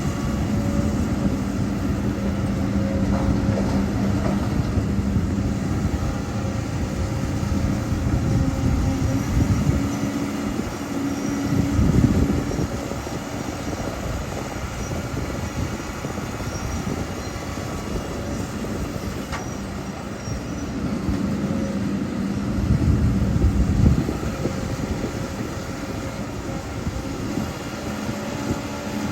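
Heavy diesel engine of a working excavator running steadily. Its note rises and swells twice, about 11 seconds apart, as it comes under hydraulic load in the dig cycle.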